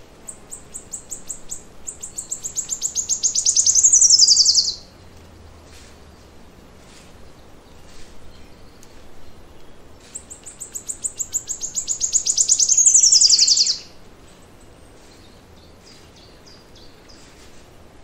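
A songbird singing two long songs. Each is a high trill of rapidly repeated notes that speeds up and grows louder, then ends in a falling flourish.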